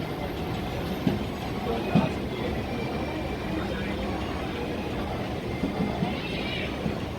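Passenger train running: a steady rumble of the moving carriages with a few short, irregular knocks.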